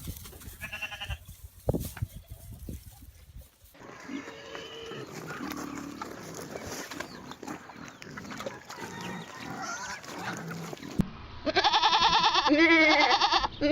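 Farm animal calls: a short call about half a second in, fainter calls over background noise, then loud, long calls with a wavering pitch for about two seconds near the end.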